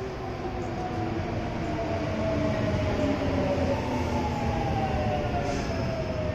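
Kintetsu Minami-Osaka Line electric train running through the station with a rumble and a whine that falls slowly in pitch. The sound swells toward the middle and eases off near the end.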